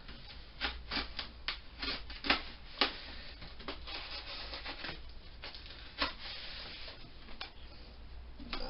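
A heavily taped cardboard package being cut and pulled open: irregular crackles and scrapes of tape and cardboard, with a stretch of continuous rustling in the middle.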